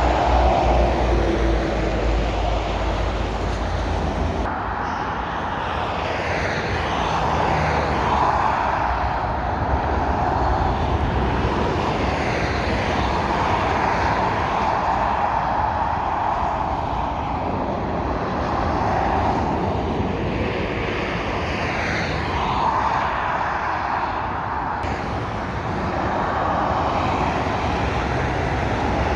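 Motorway traffic going past: lorries and cars passing one after another, their tyre and engine noise swelling and fading, with the pitch falling as some pass.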